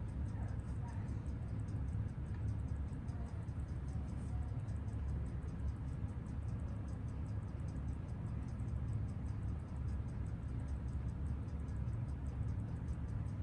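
Seiko 6139 automatic chronograph movement ticking on a timegrapher: rapid, perfectly even ticks with no let-up, over a steady low hum. The movement has just been adjusted for beat error and is running with steady amplitude, a good sign for accuracy.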